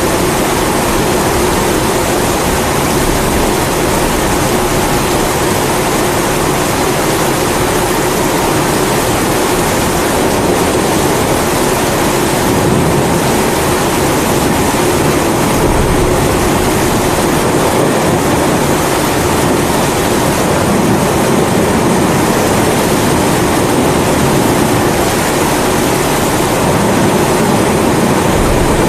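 Kerosene pressure stove (primus) burner burning with a steady roar, mixed with falling rain.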